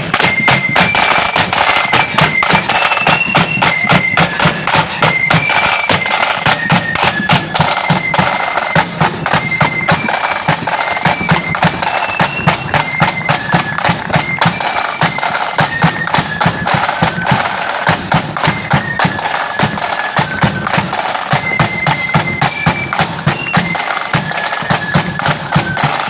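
Marching flute band playing a tune on shrill high flutes over rapid snare drum strokes and a bass drum.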